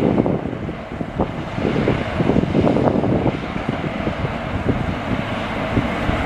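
Heavy equipment running in an aggregates pit: a loud, steady mechanical rumble with irregular rough pulses.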